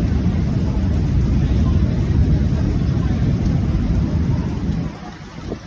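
Strong storm wind buffeting the microphone: a loud, low rumbling roar that falls away sharply about five seconds in.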